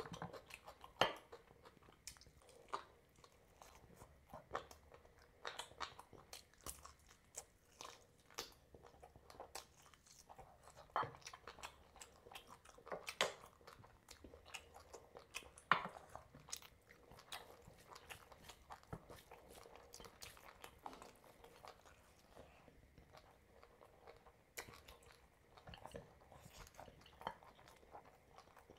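Close-miked eating sounds: a man chewing curry and rice, with irregular wet mouth smacks, crunches and clicks, and squelches of food being picked up with his hand.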